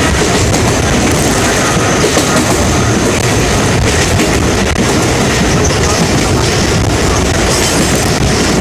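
Mumbai suburban local train running along the track: a loud, steady rumble of wheels and carriages, with occasional clicks.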